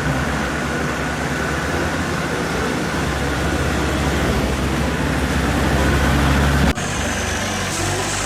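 A motor vehicle's engine running steadily, a low hum under a broad rushing noise. It breaks off abruptly about two-thirds of the way in and a similar engine sound carries on.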